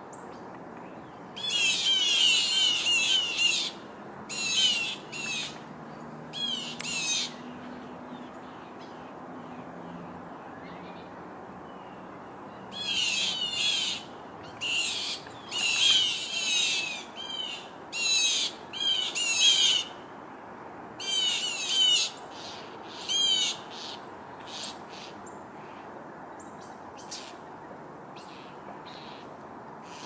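Birds giving harsh, rapidly wavering scolding calls in repeated bursts of one to two seconds, mobbing a perched owl. There are two clusters of calls with a quiet stretch of a few seconds between them.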